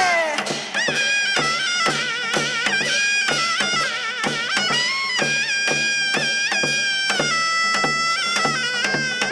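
Korean shamanic ritual music: a reedy wind instrument plays a wavering, held melody that slides down at the start, over a steady drum beat.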